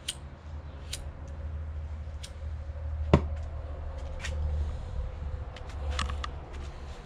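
Oxy-fuel torch flame held on the steel tubes around a seized skid-steer quick-attach pin, heating them to free the pin, with a low uneven rumble. Scattered light clicks, and one sharp metallic knock about three seconds in.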